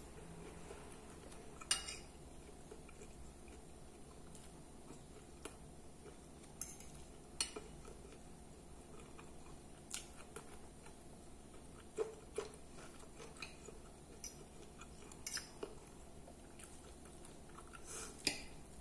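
Close-up chewing of salad, with a metal fork clinking now and then against a glass plate: about seven or eight sharp clicks, spaced a few seconds apart.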